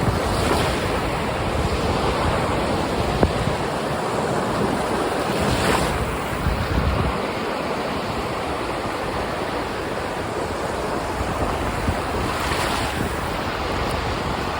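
Sea waves breaking and washing in, a continuous rush of surf that swells three times: near the start, about six seconds in, and near the end. Wind buffets the phone's microphone underneath.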